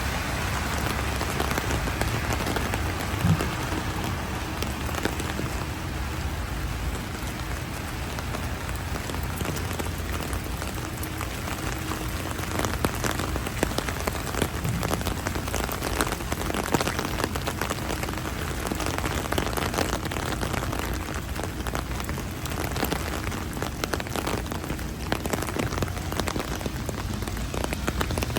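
Heavy rain falling steadily, with a dense patter of individual drops striking close by. A single short knock sounds about three seconds in.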